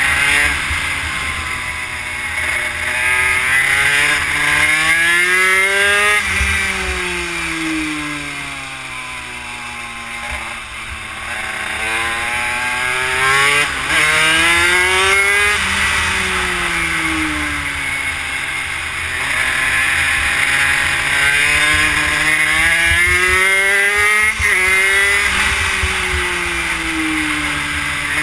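Honda CR80 two-stroke single-cylinder engine in a Yamaha YSR50 minibike, accelerating and backing off around a track: its pitch climbs in long sweeps and drops away again about three times.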